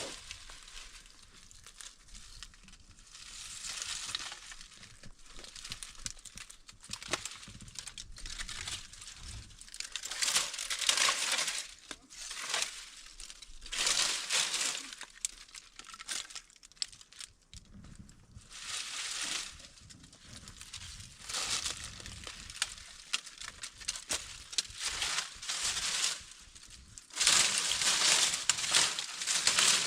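Repeated irregular bursts of crinkling and rustling, each lasting about a second, with small clicks in between. It sounds like material being handled or worked by hand.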